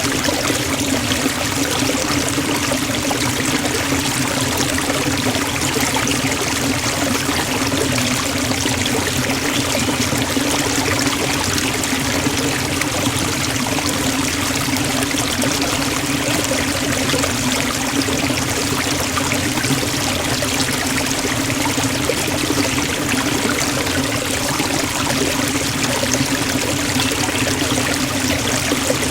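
Forest waterfall: the steady, unbroken sound of falling and splashing water, fairly loud and even throughout.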